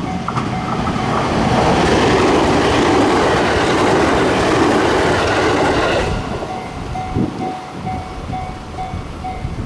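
JR 521 series electric multiple-unit train passing at speed with the running noise of its wheels on the rails. The noise builds over the first two seconds, holds while the cars go by, and falls away sharply about six seconds in as the last car clears.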